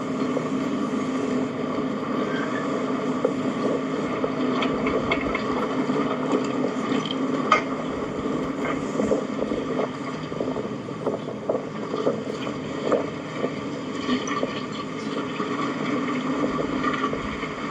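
A vehicle engine running steadily while it pulls a tire on a chain through a culvert, with scattered clicks and knocks over it.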